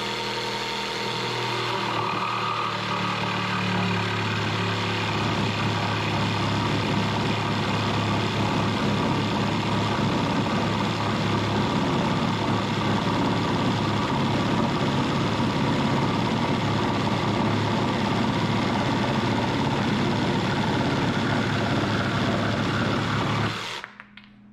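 Milwaukee M12 cordless jigsaw with a long cross-cut blade sawing through hickory: a steady motor hum under the blade's rasp, running without a break, then cutting off about a second before the end.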